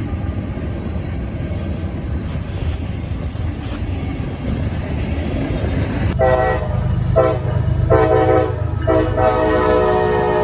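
Approaching freight train's diesel locomotive rumbling, then its multi-chime air horn sounding about six seconds in: three short blasts followed by a long one that is still sounding at the end.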